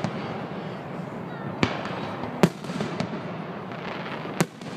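Aerial fireworks bursting overhead: three sharp bangs, about one and a half seconds in, about two and a half seconds in (the loudest), and near the end, over a steady background hubbub.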